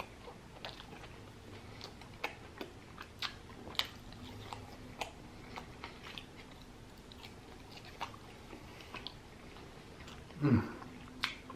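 Close-miked chewing of a lamb gyro and fries: soft wet mouth smacks and small clicks scattered through, fairly quiet. Near the end comes a brief vocal sound that drops in pitch.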